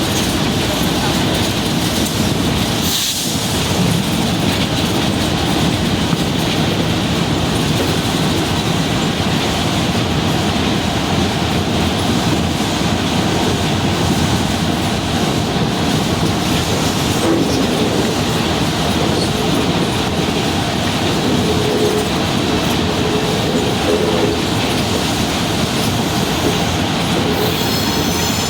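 Passenger train running along the track: a steady noise of wheels on rail throughout, with a brief high wheel squeal near the end.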